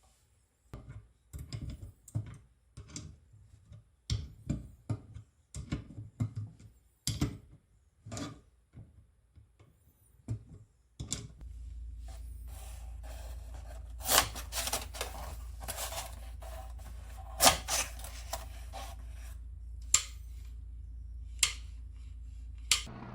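Hand hedge shears worked open and shut, giving a string of irregular sharp snips and clacks. From about halfway a steady low hum joins in, with a few louder snaps over it.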